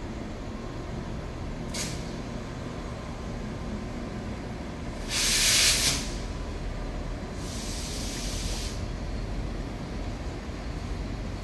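Freight train hauled by a Taiwan Railway E300-series electric locomotive moving off slowly, its wheels and wagons making a steady low noise. Bursts of compressed air hiss from the brakes: a short one about two seconds in, a loud one at about five seconds, and a longer, higher one at about seven to eight seconds.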